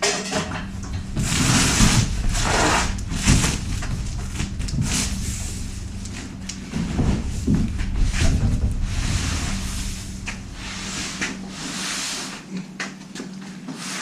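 Cardboard packaging being handled and opened: irregular rustling and scraping with several sharp knocks.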